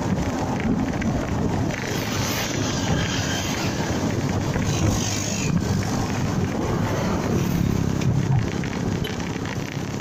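Honda MegaPro Primus single-cylinder motorcycle engine running steadily while riding, with wind rushing over the microphone.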